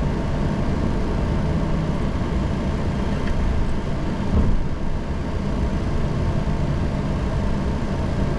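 Steady low rumble inside a Boeing 737 cockpit while the airliner taxis after landing: engine and airflow noise, with a single bump about four and a half seconds in.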